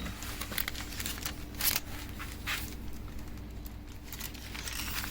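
Sheet of hydro dip transfer film crinkling and rustling in irregular bursts as it is pulled out and handled, the loudest rustle about a second and a half in.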